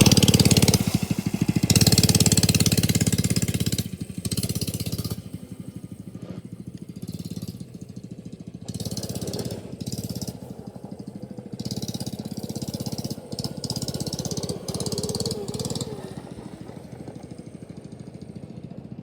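Coleman CT100U minibike's small single-cylinder engine running with a rapid, even putt-putt. It is loud for the first few seconds, then quieter, with the engine speed rising and falling.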